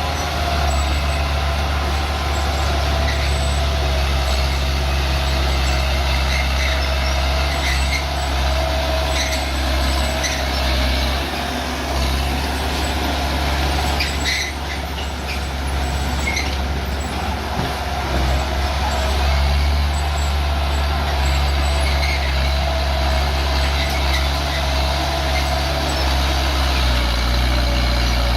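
Bulldozer's diesel engine running steadily with a deep drone and a high whine over it, easing off for a few seconds about halfway through, with a few light clanks.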